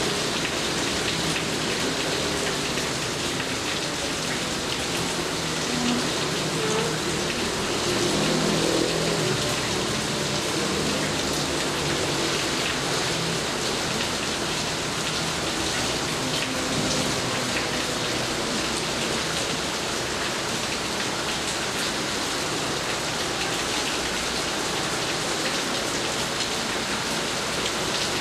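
Steady, continuous rainfall, drops pattering on surfaces.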